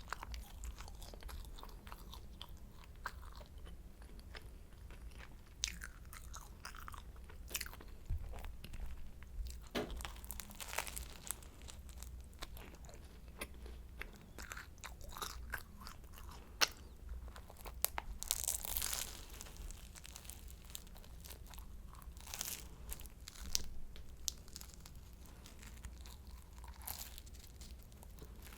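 Close-miked eating of a flaky croissant: bites that crackle the crisp pastry, and chewing, in irregular short crunches.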